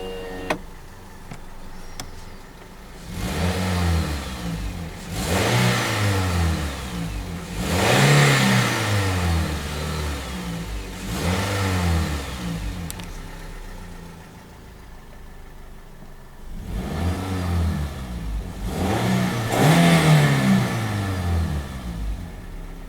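2007 Toyota Matrix's 1ZZ-FE four-cylinder engine revved and let fall back about six times, with a high-pitched whine that rises and falls with engine speed. The whine appeared after a new clutch, pressure plate and throw-out bearing were fitted, and it stays with the serpentine belt removed, so the owner rules out an accessory pulley bearing; its source is undiagnosed.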